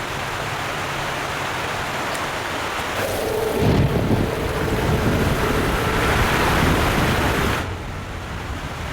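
Rushing river torrent, a steady roar of water that grows louder about three seconds in, with a deep rumble and a held tone over it, and drops off suddenly near the end.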